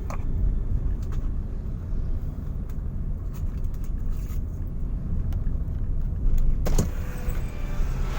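A road vehicle driving: a steady low rumble, with a few light clicks, the most distinct a little before the end.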